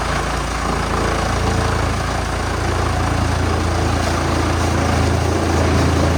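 Heavy engine running steadily at an even speed, a low hum with mechanical noise above it.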